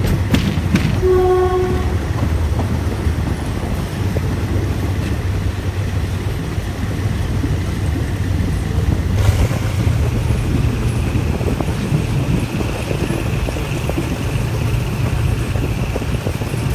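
Moving passenger train, a steady low rumble of the running train on the rails, with a short pitched horn note about a second in and a faint high whine in the second half.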